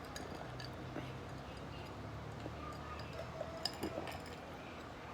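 A few light clicks of utensils against a bowl, bunched together about two-thirds of the way in, over a low steady hum.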